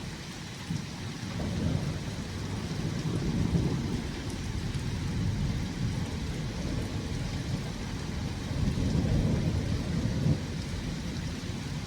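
Thunderstorm: steady rain with low rolling thunder, the rumble swelling about two seconds in and again near the end.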